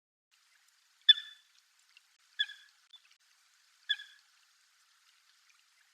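Common coot calling: three short, sharp single-note calls about a second and a half apart.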